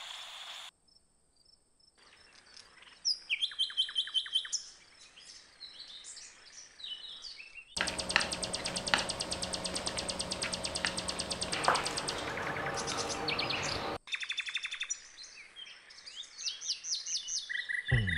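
Birds chirping with short, repeated high calls, with a louder and busier stretch in the middle.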